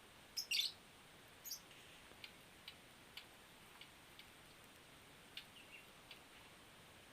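A caged songbird giving short, high chirps: a quick cluster about half a second in and another a second later, then soft scattered ticks and chips.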